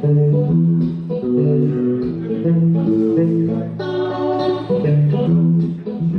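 Kompa band music: guitar playing a melodic line over bass guitar notes.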